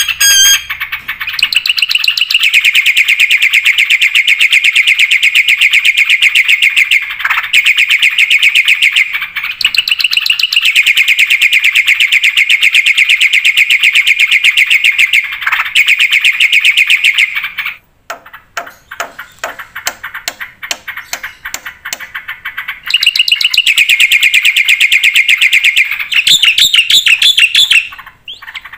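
Black-winged starling (jalak putih) in full song: long, rapid, high trills, broken for a few seconds after the middle by a run of quick sharp clicking notes before the trilling resumes.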